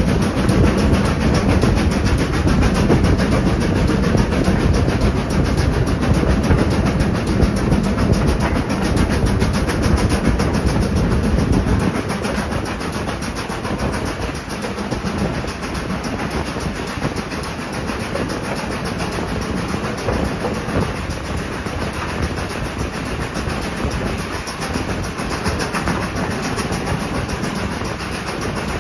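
Moving heritage train heard from an open carriage window: steady rumble of the coach wheels on the rails with rushing wind. It is louder and heavier for about the first twelve seconds, then somewhat quieter.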